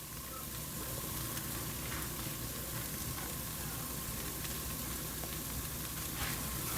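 Parmesan cheese and bacon crisps sizzling in a pan on medium-low heat: a steady frying hiss with small scattered crackles as the cheese melts down.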